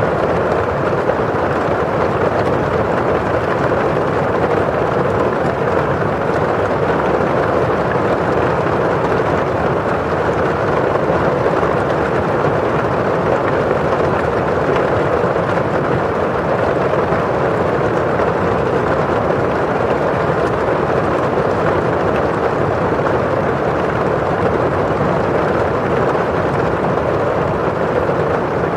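Steady rain falling on a window pane, an even, unchanging hiss with no single drops standing out.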